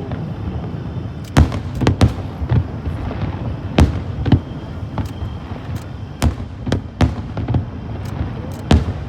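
Aerial fireworks display: a string of about fifteen sharp bangs from bursting shells, coming at irregular intervals, with a low rumble that carries on between them.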